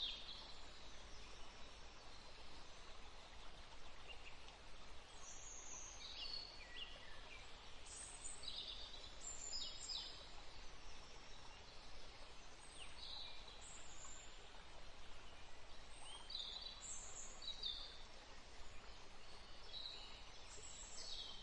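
Scattered short, high bird calls, one or two every couple of seconds, over steady outdoor background noise.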